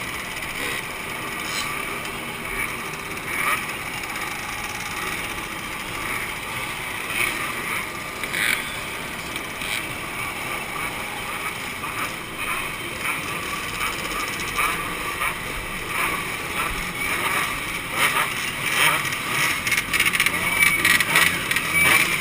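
Two-stroke motorcycle engines running amid indistinct crowd chatter, getting louder and more uneven in the last few seconds.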